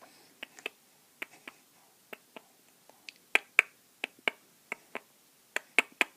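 A person making sharp clicking sounds to get a baby's attention: about twenty short clicks in irregular runs, often in quick pairs, with the loudest in the middle and near the end.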